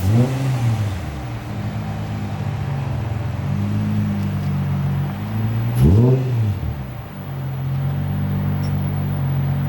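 Car engine idling, blipped twice: a quick rev up and back down at the start and again about six seconds in.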